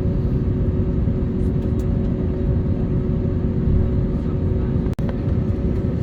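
Airbus A321neo cabin noise from inside the airliner: a steady engine and airflow rumble with two steady hum tones over it. The sound drops out for an instant about five seconds in.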